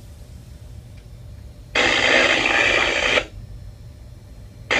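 A two-way radio on the boat cuts in with a burst of crackly, narrow-sounding transmission lasting about a second and a half, starting and stopping abruptly about two seconds in. Under it the boat's engine keeps up a steady low rumble.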